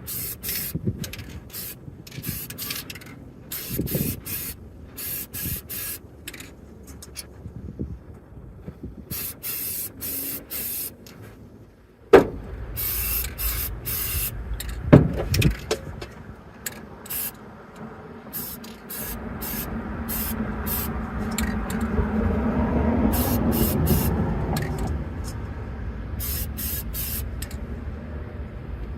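Aerosol spray paint can sprayed in many short bursts of hiss, painting the inside of a steel M1 helmet shell. Two sharp knocks come about 12 and 15 seconds in, and a passing vehicle's rumble swells and fades in the second half.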